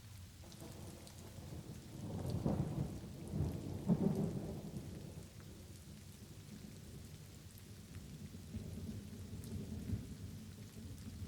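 Light rain falling steadily, with a low roll of thunder that builds about two seconds in, peaks twice and dies away; a second, softer rumble rises near the end.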